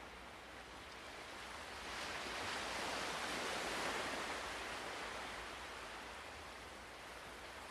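Ocean waves washing in, one slow swell that builds for a couple of seconds, peaks about four seconds in, then recedes.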